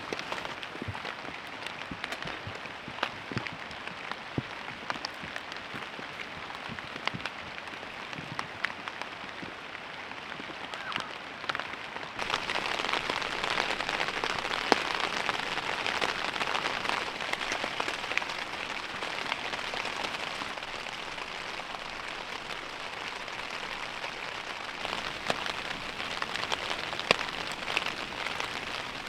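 Steady rain falling, a dense hiss dotted with single drops pattering close by. It turns suddenly louder about twelve seconds in.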